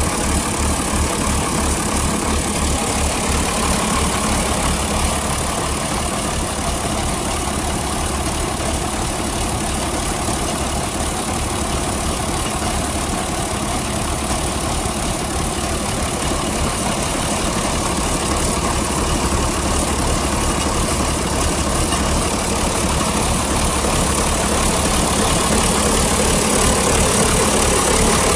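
A vintage engine running steadily with a regular low beat, growing slightly louder near the end.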